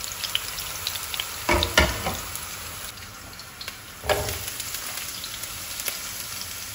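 Sliced garlic sizzling in hot olive oil in a deep frying pan, a steady hiss. Strips of zucchini and pepper are dropped in and stirred with a wooden spoon, giving louder bursts of sizzle and clatter about one and a half seconds in and again about four seconds in.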